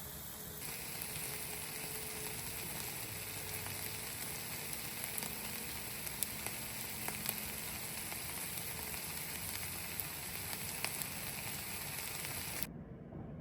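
Food sizzling and frying in a pan: a steady hiss with scattered small pops of spitting oil, cutting off suddenly near the end.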